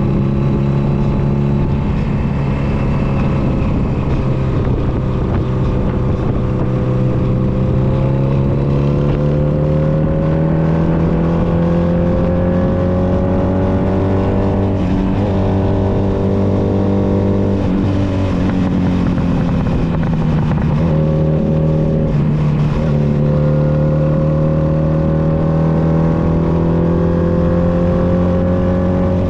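Honda Nighthawk 250's air-cooled parallel-twin engine running under way, its pitch climbing slowly for about fifteen seconds, falling off around seventeen seconds as the throttle eases, then climbing again after a short break in the pitch. A steady rush of wind noise runs underneath.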